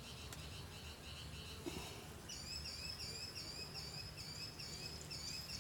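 Outdoor animal chirping, insects or songbirds: a high chirp repeated about four times a second, joined about two seconds in by a higher, downward-sweeping call repeated about three times a second, over a faint steady low hum.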